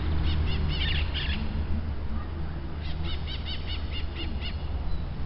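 A bird calling: two runs of quick, repeated high arching notes, the second starting about three seconds in.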